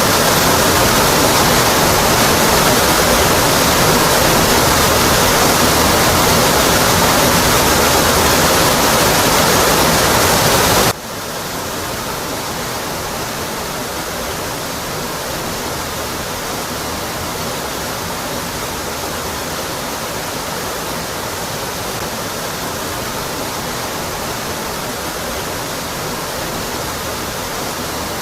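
A waterfall rushing steadily. About eleven seconds in, the sound drops suddenly to a quieter, duller rush that then holds steady.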